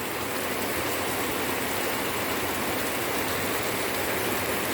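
Steady rain falling, an even continuous patter on garden plants and ground with no wind.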